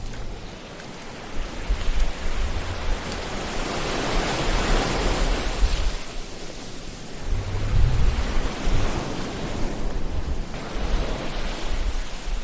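Ocean waves surging and washing in. One swell builds about four seconds in, and another breaks with a low rumble about eight seconds in.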